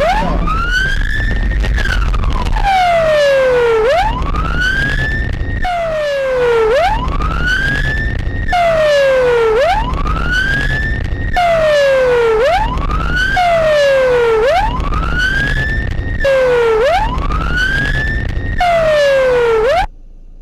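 Emergency vehicle siren wailing, its pitch rising for about two seconds and falling for about two, cycle after cycle. It breaks off and restarts abruptly several times, then cuts off suddenly near the end, with a low rumble of vehicle noise underneath.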